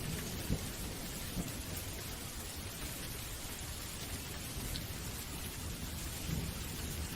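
Steady rain, with low thunder rumbling that swells briefly just after the start and again near the end.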